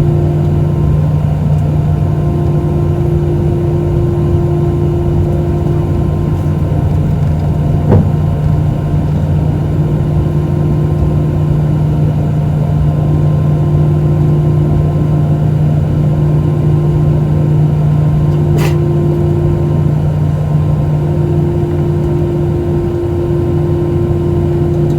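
Airbus A320 jet engines and airflow heard inside the passenger cabin as a loud, steady drone with constant humming tones. Two brief clicks break it, one about a third of the way in and one about three-quarters of the way in.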